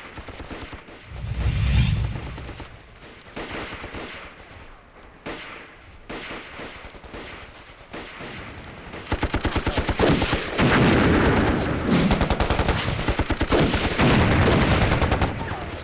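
Battle gunfire: rifle shots and machine-gun fire in rapid strings, with a heavy low thud about two seconds in. From about nine seconds in the firing grows louder and denser, sustained bursts of automatic fire.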